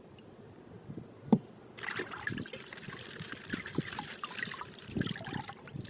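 Thin plastic wrapping crinkling and rustling as a toy's plastic bag is handled, a dense crackle that starts about two seconds in after a single sharp click.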